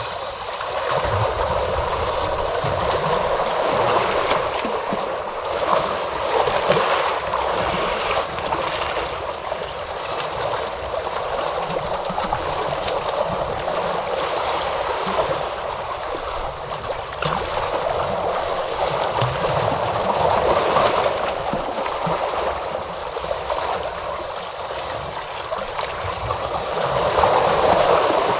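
Ocean waves washing in: a continuous rush of surf that swells and eases every few seconds, loudest near the end.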